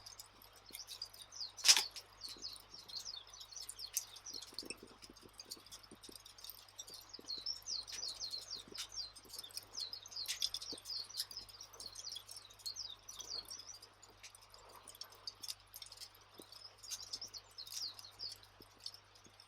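Crackling campfire ambience: scattered sharp pops and snaps, one much louder pop about two seconds in, over continuous high-pitched chirping.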